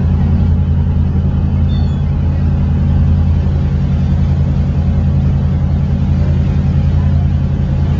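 A steady low engine hum that runs unchanged, with one faint, short high chirp about two seconds in.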